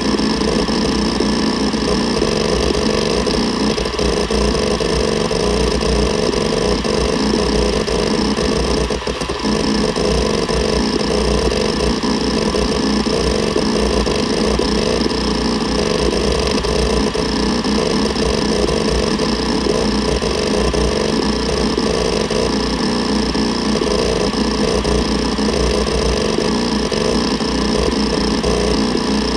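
Seagate Barracuda ES.2 ST31000340NS 7200 rpm hard drive running: a steady whine from the spinning platters under dense, rapid, irregular chattering of the heads seeking. There is a brief lull about nine seconds in.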